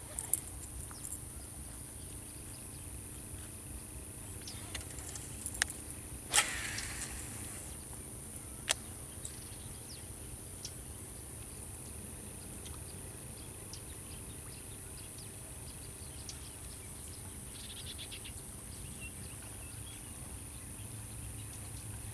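Steady high-pitched insect drone, with a few sharp clicks scattered through it; the loudest click, about six seconds in, is followed by a brief fading hiss.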